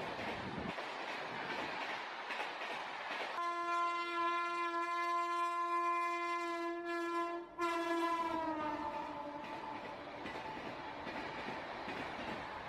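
Freight wagons rolling past at close range with steady wheel-on-rail noise. A few seconds in, a train horn sounds one held tone for about four seconds, breaks off for an instant, then comes back sliding down in pitch and fades away.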